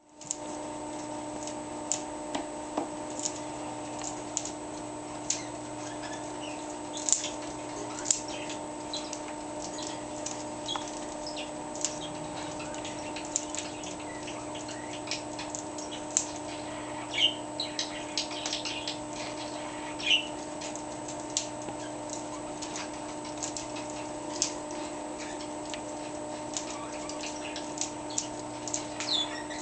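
Green-cheeked conure making scattered sharp clicks and a few short high chirps, over a steady low hum.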